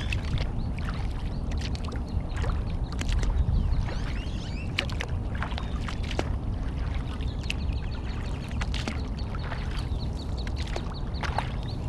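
Water splashing and lapping around a Horizon Hydra 14 sit-inside sea kayak as it moves on a lake, with many short sharp splashes and knocks over a steady low rumble. Short duck calls come in among it.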